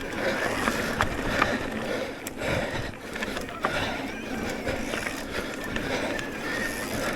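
Electric mountain bike riding over a dirt trail: tyres rolling over rough ground, with the bike rattling and clicking over bumps.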